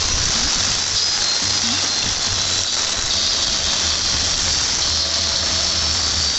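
Heavy rain falling, a loud steady high-pitched hiss with a low rumble underneath.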